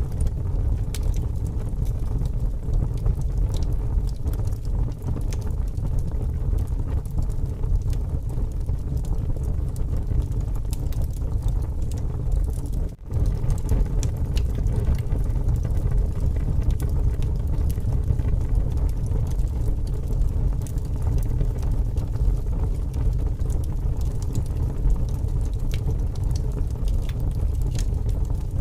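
Wood fire crackling with scattered small pops over a strong, steady low wind rumble. The sound drops out briefly about halfway through.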